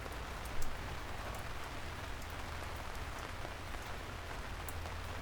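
Steady rain falling, with scattered sharp drops tapping on a surface and one louder tap about half a second in.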